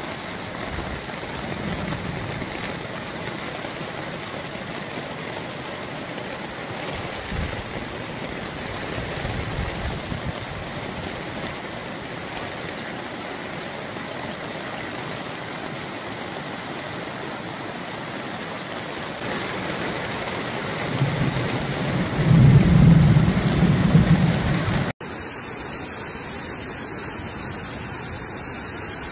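Heavy rain pouring steadily, with low rumbles now and then, the loudest and longest about three-quarters of the way through. Near the end the sound cuts abruptly to a different steady rushing noise.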